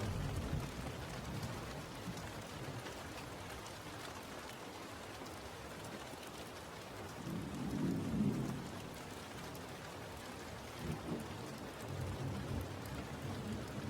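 Steady rain with low rolls of thunder, the strongest rumble about eight seconds in and a weaker one near the end.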